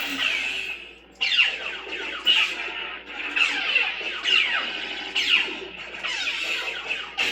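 Lightsaber sound font (Bald Assassin 2D v2, smoothswing) with a steady electric hum, swung again and again. About once a second there is a swing, heard as a whoosh falling in pitch. The hum drops away briefly about a second in, then comes back sharply.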